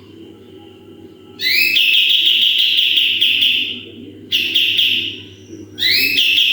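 A kapas tembak songbird singing three loud phrases. Each opens with quick upward-sweeping whistles, the 'tembakan' (shots), then a long trilled whistle held at one pitch. A steady low hum runs underneath.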